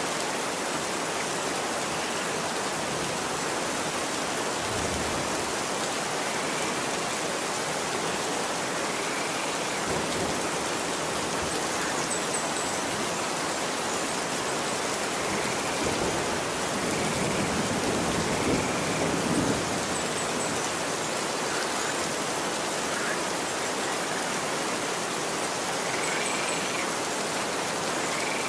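Steady rain falling on a street, an even hiss throughout. It swells slightly for a few seconds midway, with a few faint short chirps now and then.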